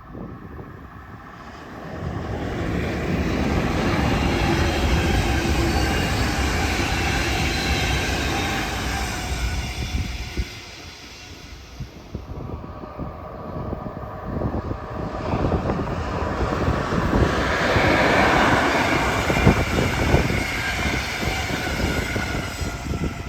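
Trains passing on the track, running loudly twice: one swell of rail noise rises about two seconds in and dies away near the middle, then a second one builds and peaks near the end.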